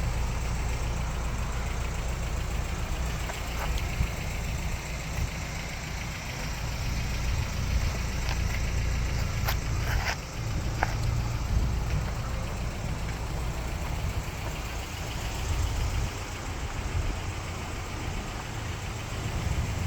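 A 1987 Toyota pickup's engine idling steadily, with a few light clicks about halfway through.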